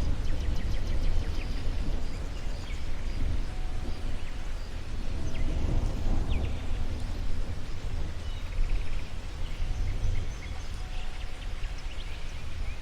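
Outdoor nature ambience: small birds chirping now and then, with a quick trill a little past the middle, over a steady low rumble.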